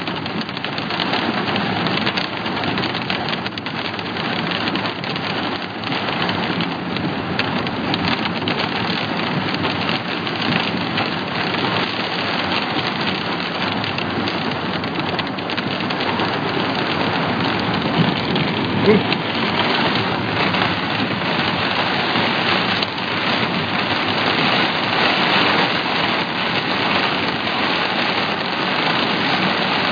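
Steady heavy rain during a thunderstorm, an even hiss of falling rain that grows slightly louder toward the end, with one brief sharper sound about 19 seconds in.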